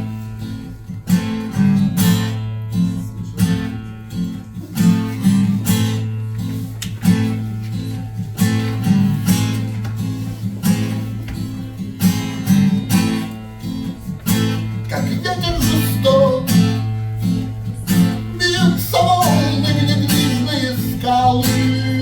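Acoustic guitar strummed in a steady rhythm, the instrumental introduction of a bard song before the singing begins.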